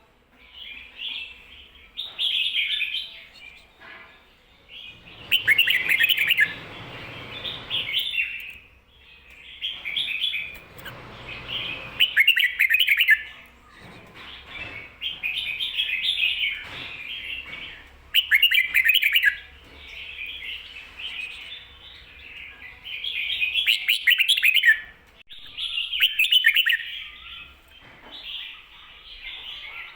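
Red-whiskered bulbul singing short chirping song phrases over and over, one every couple of seconds, in the doubled 'ko-ta-ra' pattern that Thai bulbul keepers use to teach young birds.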